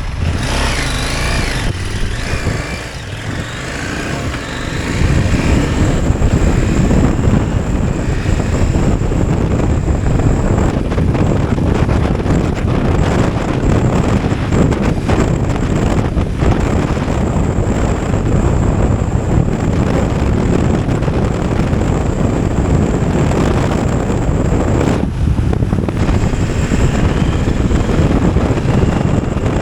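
Enduro motorcycle riding, its engine running under wind noise on the microphone, steady and loud, picking up about five seconds in.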